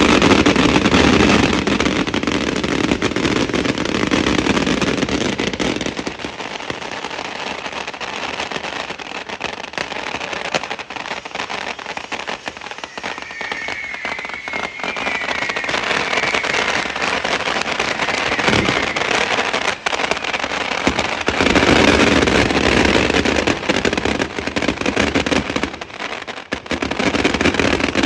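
Fireworks and firecrackers going off in a continuous dense barrage of crackles and bangs, with a wavering high whistle about halfway through.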